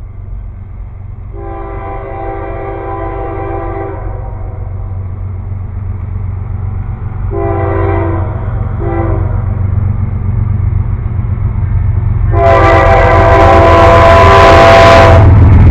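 Approaching train sounding its locomotive air horn in four blasts: a long one, two short ones, then a final long one that is the loudest. Under the horn, a low engine rumble grows steadily louder as the train nears.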